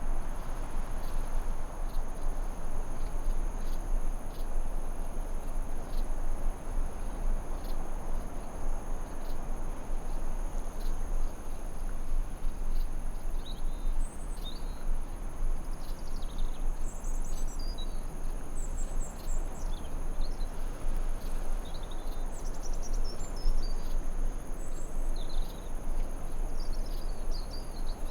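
Forest ambience: a steady rushing hiss under a continuous high-pitched insect drone, with short bird chirps and twitters coming in about halfway through and recurring to the end.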